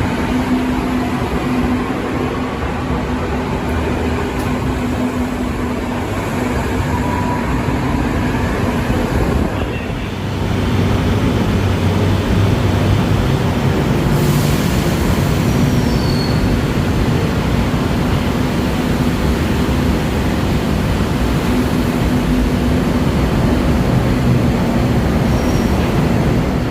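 Train running: a steady loud rumble with a low hum, growing louder about ten seconds in.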